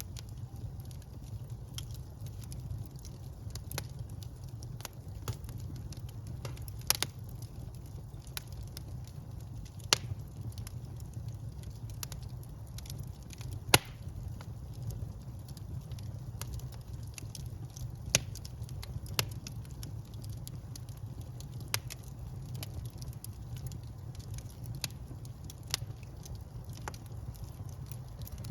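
Wood fire burning in a fireplace: a steady low rumble of the flames with irregular sharp crackles and pops, a few of them much louder than the rest.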